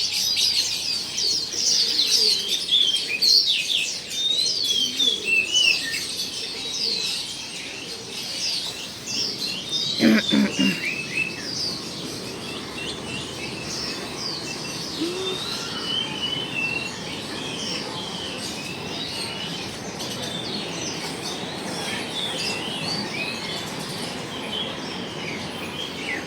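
Many small songbirds chirping and twittering at once, a dense chorus of short high calls, busiest in the first ten seconds. A brief lower sound cuts in about ten seconds in.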